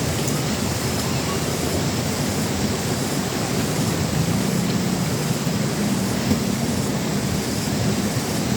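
Steady, even rushing noise with a faint low hum underneath from about halfway through.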